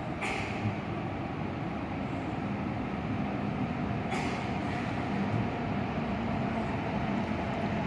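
E7-series Shinkansen train pulling into the platform: a steady rumble growing slowly louder, with two brief hisses, one right at the start and one about four seconds in.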